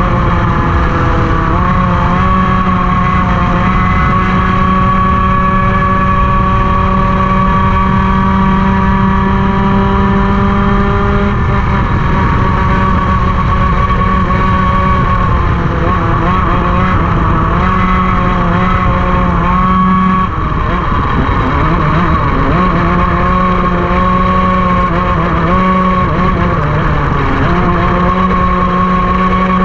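Racing kart engine running hard at high revs, holding a near-steady pitch. Its pitch drops briefly about twenty seconds in, and again about seven seconds later, before climbing back.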